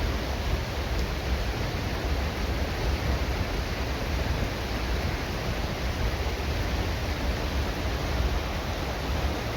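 Steady, unbroken roar of a waterfall's falling water, with a deep rumble under it.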